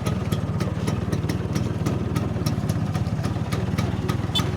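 Vespa scooter engine running steadily, with a regular ticking clatter of about three or four ticks a second over it.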